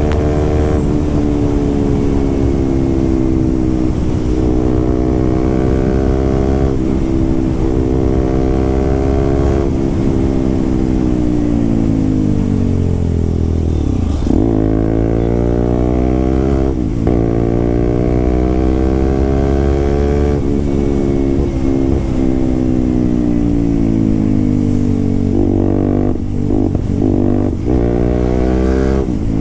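Motorcycle with an SC-Project aftermarket exhaust, ridden loud: the engine note climbs and falls with the throttle through the gears, with a sudden drop in pitch about halfway through and more rises and drops near the end.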